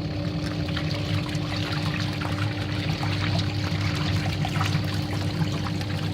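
Washing machine running with a steady motor hum and water pouring and splashing inside the drum.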